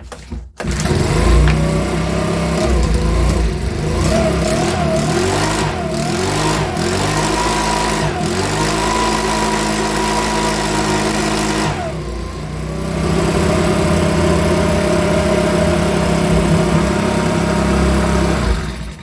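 Makita BHX2500 24.5 cc four-stroke leaf blower engine starting about half a second in and running, its revs rising and falling unevenly for the first few seconds. It dips briefly about twelve seconds in, then runs steadily at higher revs before cutting off just before the end. This is the repaired non-runner now running.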